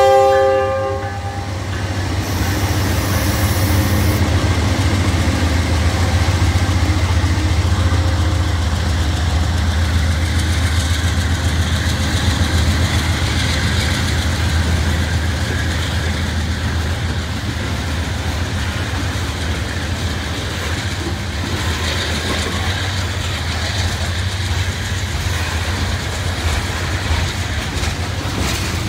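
Freight train passing close by: the locomotive horn's chord cuts off about a second in, then the diesel locomotives rumble past and open-top hopper cars roll by with steady wheel and rail noise.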